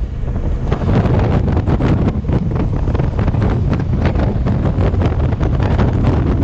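Wind buffeting the microphone of a Honda Africa Twin motorcycle at cruising speed, in uneven gusts, over the low drone of the bike's parallel-twin engine.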